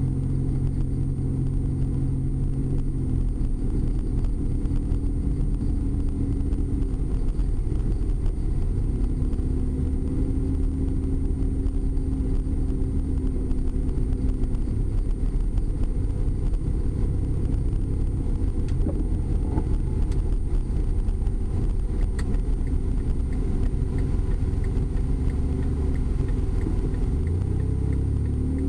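A car driving: a steady low engine hum and road rumble, with the engine note changing pitch a few times as the speed changes.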